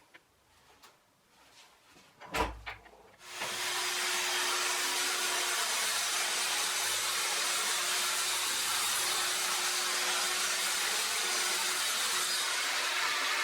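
A knock, then an electric power tool switched on about three seconds in and running steadily with a hiss and a faint hum.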